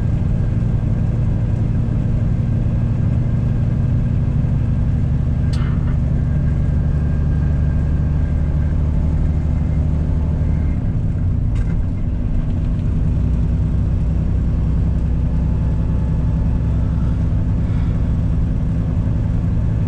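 Semi truck's diesel engine running steadily under load, heard from inside the cab as the loaded rig climbs a hill in 16th gear at around 1,480 rpm. About midway there is a brief dip and the low engine note settles slightly lower.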